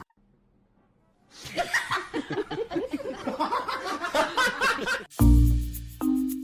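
A person laughing hard in quick bursts for about four seconds, after a second of silence. Then music starts with a deep bass hit and short held notes.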